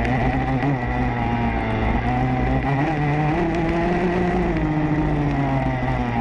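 Motocross bike engine under way, heard from a camera mounted on the rider or bike: the revs climb over a second or so a few seconds in, hold, then drop back.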